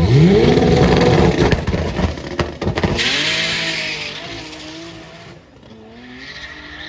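A car accelerating hard from launch: its engine note climbs steeply, then steps through gear changes and fades as the car pulls away. A short noisy rush comes about three seconds in.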